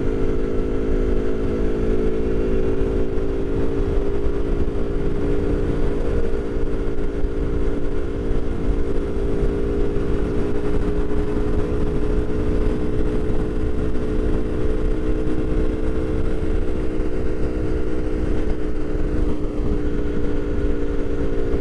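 Aprilia Tuono V4 1100 Factory's V4 engine running at a nearly steady pitch while cruising. It is heard from a microphone inside the rider's helmet, with a constant low wind rumble.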